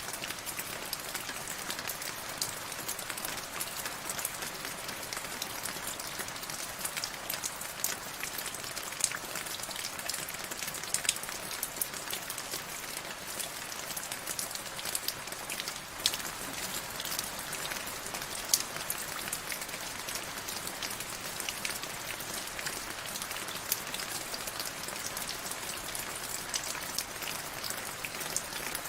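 Steady rain falling, with many close individual drops ticking sharply on a hard surface over an even hiss.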